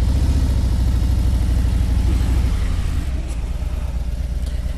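Motorcycle engine running steadily at low revs, a low pulsing throb that gets a little quieter about halfway through.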